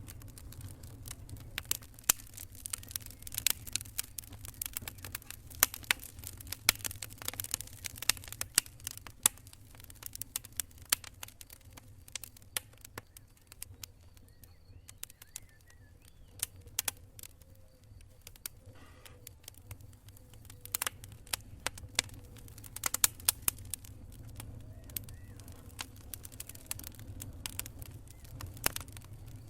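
Campfire crackling: sharp pops of burning wood, dense for the first several seconds and again about three quarters of the way through, sparser in between, over a low steady rumble.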